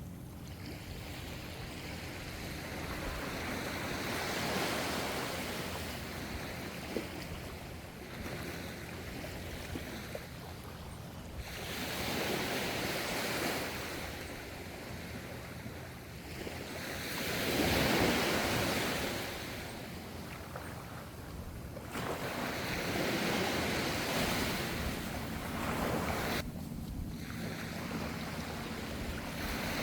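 Ocean waves breaking and washing onto the shore in slow surges of rushing noise every few seconds, the loudest about two-thirds of the way through.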